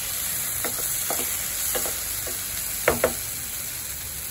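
Spiced gravy sizzling and frying in a non-stick pan while a wooden spoon stirs it, with a steady hiss and a string of light knocks and scrapes of the spoon against the pan, the loudest two close together about three seconds in.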